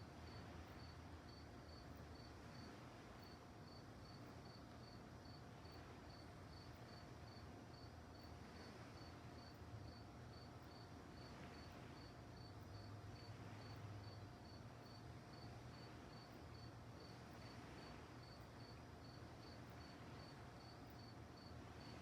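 Crickets chirping faintly in a steady, even rhythm of about two high-pitched chirps a second, over a low rumble and a faint steady hum.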